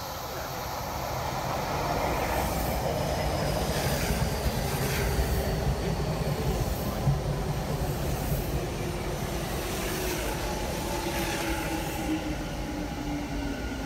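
Tokyu 5050 series electric train running in along the platform: wheel and rail rumble with occasional clacks, swelling over the first couple of seconds. Through the second half a motor whine falls steadily in pitch as the train slows.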